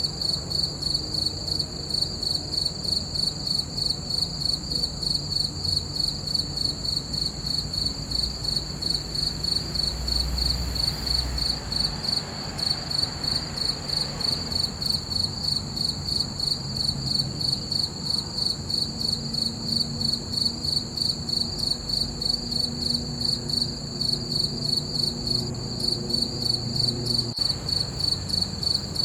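Crickets chirping steadily, a high-pitched chirp repeating about three times a second.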